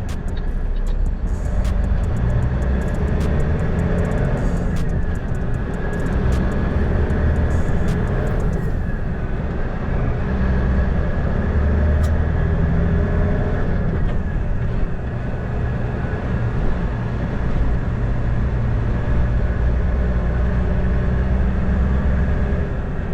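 A truck being driven, heard from inside the cab: a steady engine and road rumble with slow changes in engine pitch. Light clicks and rattles run through the first eight or nine seconds.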